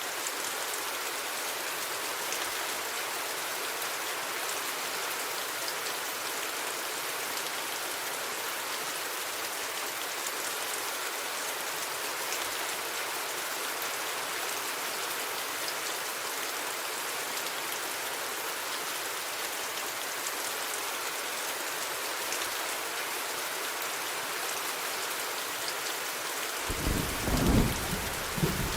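Steady rain falling, an even hiss of drops. Near the end, a loud low roll of thunder rumbles in.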